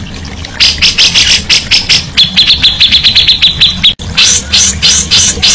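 Songbird singing a fast series of sharp, repeated notes, with a rapid, even trill about two seconds in. The song breaks off in a brief dropout about four seconds in, then resumes.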